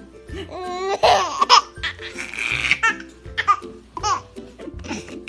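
A baby laughing in several bursts, one of them breathy, over background music.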